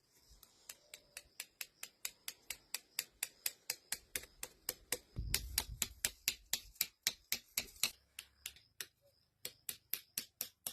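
A fast, even series of sharp ticks, about four a second, that stops for a moment and then starts again near the end.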